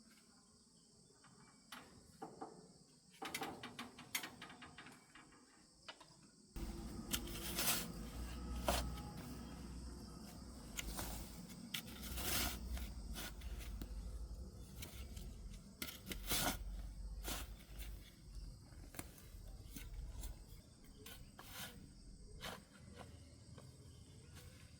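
Insects buzzing steadily in the background. About six seconds in, a low rumble starts, with scattered knocks and rustles over it.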